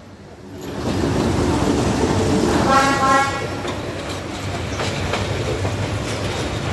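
Diesel locomotive passing close by, its engine rumbling, with a short horn blast about three seconds in. The passenger carriages follow with a steady rumble and wheel clatter on the rails.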